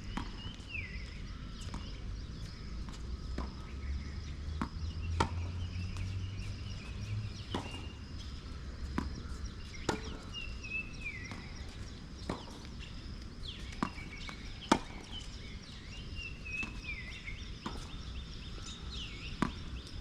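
Tennis balls being struck and bouncing, as a series of sharp knocks at irregular intervals, with repeated descending bird calls between them.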